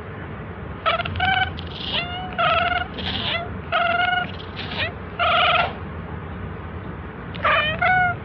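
A cat meowing: a quick string of short, high-pitched meows, a pause of over a second, then two more near the end.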